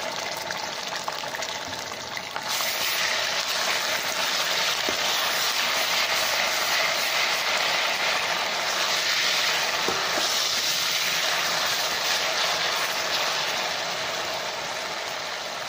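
Ginger-garlic paste sizzling in hot oil with fried onions in a kadai: a loud, steady frying hiss that jumps louder about two seconds in and eases slightly near the end.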